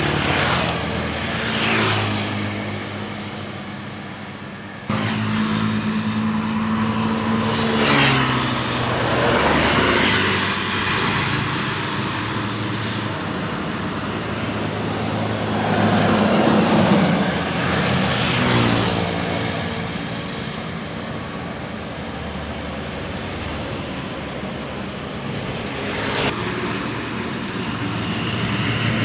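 Buses passing by on a road one after another, their engine and exhaust noise swelling and fading with each pass. There is a sudden jump in level about five seconds in.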